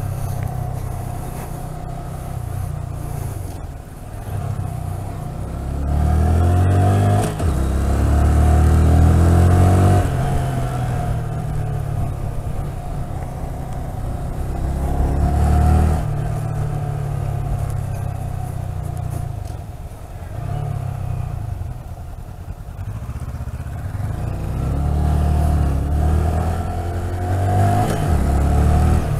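Honda Grom's 125 cc single-cylinder engine heard from the rider's seat, pulling up through the revs and easing off several times as the gears change, with wind rushing past.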